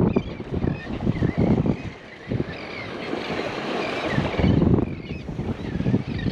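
Gusty wind buffeting the microphone in uneven swells, with surf washing on the beach behind it.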